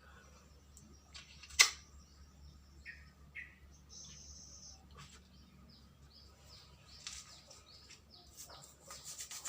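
Small metal parts and tools being handled during carburetor work: a sharp click about one and a half seconds in, then light clinks and scrapes that grow busier near the end, with faint bird chirps in the background.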